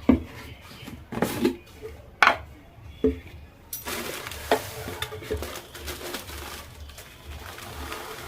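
Dishes and utensils clattering: several sharp knocks and clinks over the first few seconds, then a steady low hiss.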